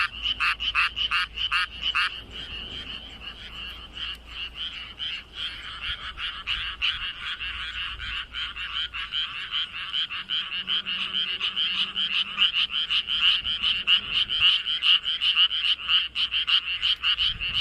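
Frogs croaking: rapid, evenly spaced croaks about three a second for the first two seconds, then a dense chorus of many overlapping croaks.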